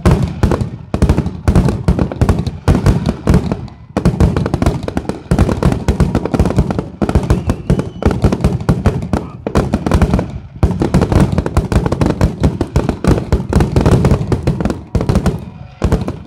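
Aerial fireworks finale barrage: shells bursting in rapid, overlapping succession, several loud bangs a second with only brief lulls.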